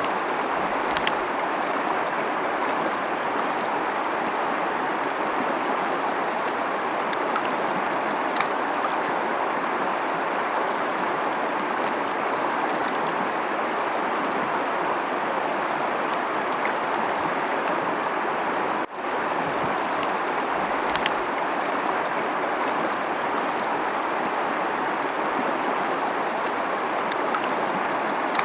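Fast-flowing river rushing and splashing in a steady, even wash of water noise, with small splashes on top. The sound drops out for an instant about two-thirds of the way through, then resumes unchanged.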